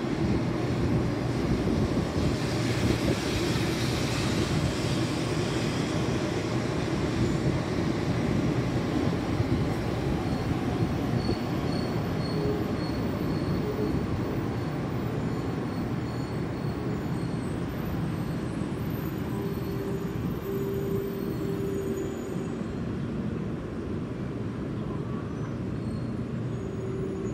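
Taiwan High Speed Rail 700T train pulling into the station, a steady rumble of wheels and running gear that slowly eases as it slows. A brief hiss comes a few seconds in, and faint high tones appear later as it decelerates.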